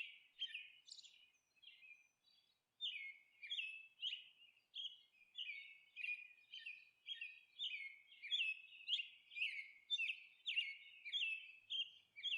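Faint small bird chirping over and over, quick falling chirps about two a second, with a pause of just over a second before they resume.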